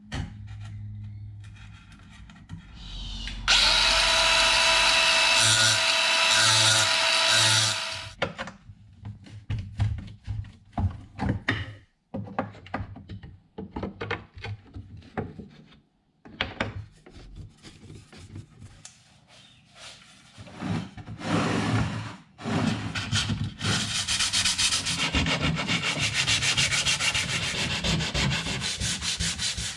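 Woodworking on an old wooden chair. About four seconds of a steady power-tool run comes first, then scattered knocks and scrapes on the wood. Near the end, steady sanding of wood.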